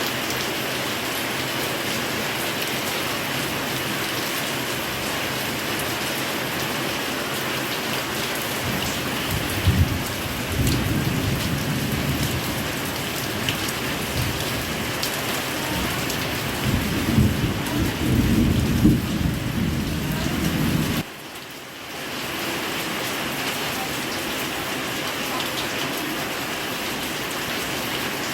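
Heavy rain pouring steadily. From about ten seconds in a long low rumble of thunder builds under it, swelling twice before it cuts off suddenly; the rain then carries on.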